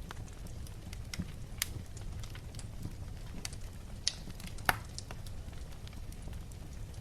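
Wood fire crackling: scattered sharp pops and ticks over a steady low rumble, with two louder pops a little past halfway.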